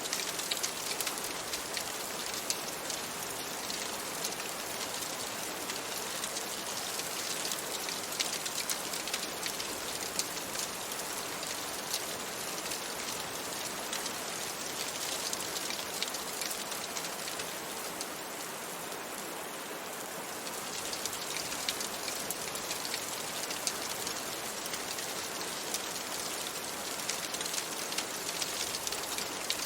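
Steady rain pattering on a window, layered with the crackle of a wood fire in a fireplace: an even hiss dotted with many small sharp ticks, easing slightly for a couple of seconds past the middle.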